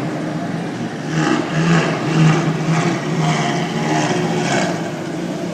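Car engine running steadily at low revs, with the level rising and falling a little.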